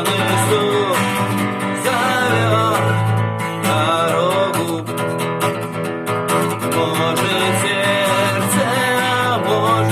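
Music: an acoustic guitar playing a melodic line over sustained low chords, in a passage without sung words.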